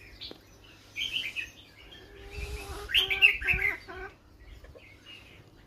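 Bird chirping in short calls, with a louder run of harsher, pitched calls about three to four seconds in.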